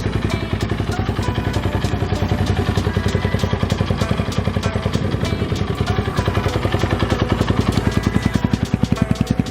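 Apollo 250cc dirt bike's single-cylinder engine running steadily, its exhaust firing in an even, fast pulse.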